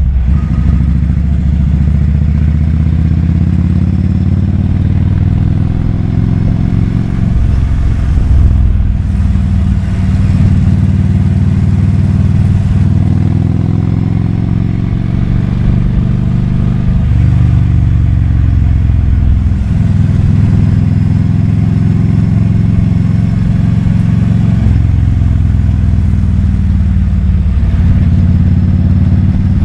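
Kawasaki Vulcan 2000's big-displacement V-twin engine running under way. Its pitch climbs and then drops sharply several times, as at gear changes.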